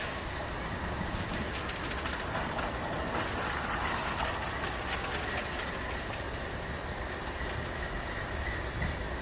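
A train rolling past on the rails, a steady rumble and rattle of wheels and cars with a thin high ringing tone throughout. The hiss and clicking grow brighter from about 1.5 to 6 seconds in, then ease off.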